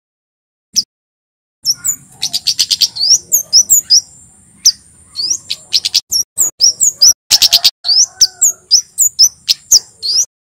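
Male kemade jawa singing loudly in a fast run of short, sharp, high chirps, each sliding up in pitch, at times over a thin, steady high-pitched trill. The song starts about a second and a half in, after a silence.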